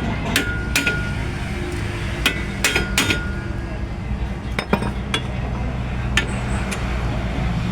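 Metal on metal: about ten sharp clinks and taps from hand tools on steel suspension parts, some leaving a brief ring, over a steady low hum.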